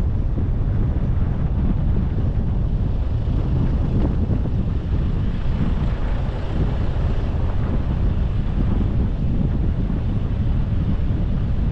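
A car driving, with a steady rumble of road and wind noise and no clear engine note.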